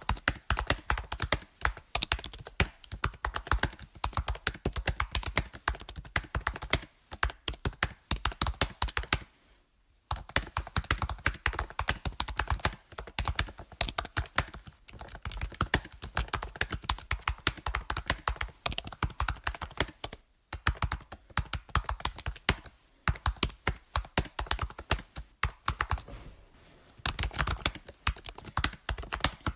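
Computer keyboard typing: keys clicking in quick, irregular runs, with two brief pauses, about ten seconds in and again about twenty seconds in.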